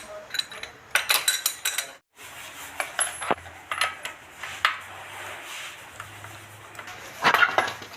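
Metallic clicks and clunks from a jacked-up Toyota Innova wheel being rocked by hand: the knock of play in a worn wheel bearing. A quick run of clunks in the first two seconds, then scattered single clicks and a short cluster near the end.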